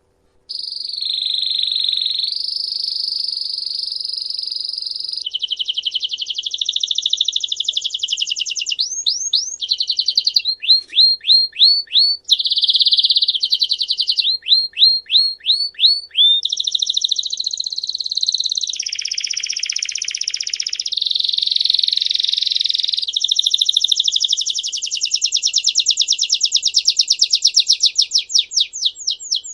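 A songbird singing a long, continuous song that starts about half a second in: fast trills and rolling phrases, broken by runs of quick repeated notes that sweep downward.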